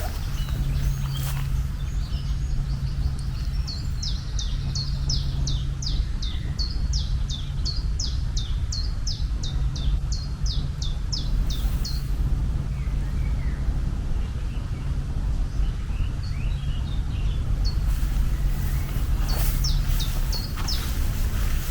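A bird chirping in a quick series of short, high, falling notes, about two to three a second, for several seconds; a few more chirps come near the end. Underneath is a steady low rumble with a low hum that comes and goes.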